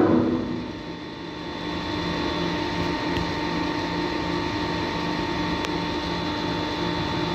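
Machinery running steadily: a hum with several steady tones and a low throb pulsing about twice a second. A louder tone dies away in the first second.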